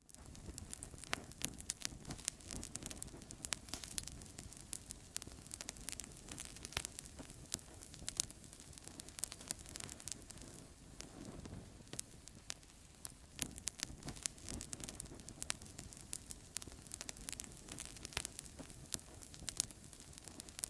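Outdoor campfire crackling, with frequent sharp pops and snaps over a soft steady hiss.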